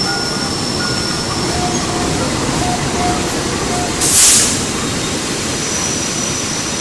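Passenger train coaches rolling past close by as the train enters the station, a steady rumble of wheels on rails, with a short sharp hiss about four seconds in.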